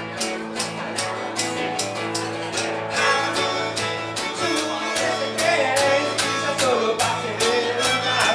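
Band playing a guitar-led song with a steady beat; a voice starts singing about three seconds in.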